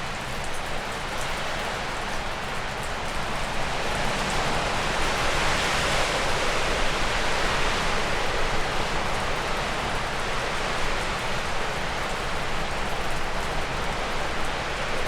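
Wind gusting through spruce and birch trees, a rushing hiss that swells into a strong gust about four seconds in and eases off after the middle. Faint drips of meltwater falling from a roof tick through it.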